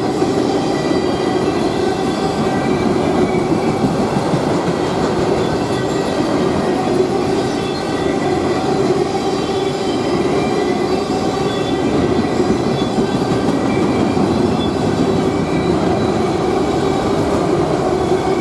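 Freight train rolling past: a steady loud rumble and rattle of steel wheels on rail, with faint high wheel squeal.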